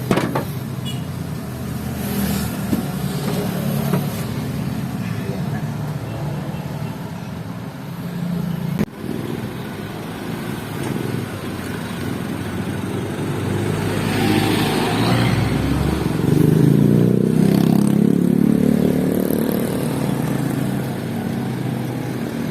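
A motor vehicle's engine running steadily, growing louder in the last third.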